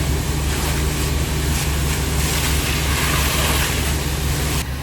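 A steady loud rushing hiss over the low, constant drone of an idling truck engine.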